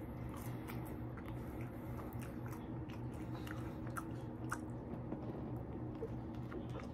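Close-up chewing and biting of French fries and a grilled sandwich, with many small sharp mouth clicks, over a steady low hum.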